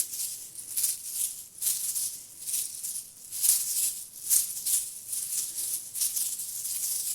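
Small hand-held bells shaken close up in repeated strokes, about two a second, giving a bright jingling rattle.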